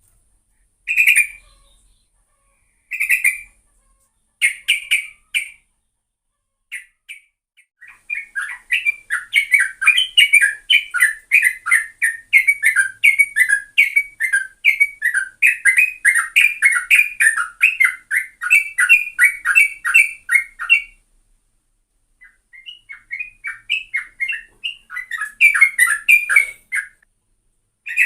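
Yellow-vented bulbul (trucuk) singing: a few short phrases, then a long rapid run of notes lasting about thirteen seconds, a short pause, and another rapid run. It is a fast, rolling 'ropel'-style song of the kind played to lure trucuk birds.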